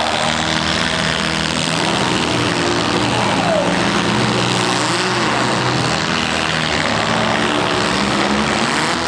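Demolition derby compact cars' engines running in a steady drone, with brief rises and falls in pitch as they rev.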